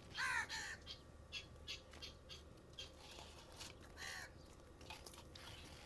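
A bird calling: two loud, harsh, arched calls near the start and another about four seconds in, with fainter short chirps scattered between.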